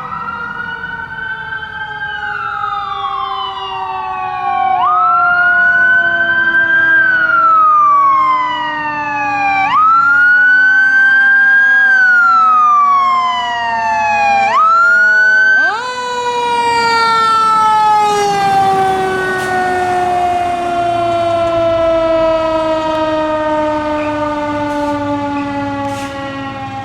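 Fire engine sirens on a response run: a wailing siren rising and falling about every five seconds, over a second siren tone that falls slowly throughout. About two-thirds of the way through the wail stops and the slowly falling tone carries on alone.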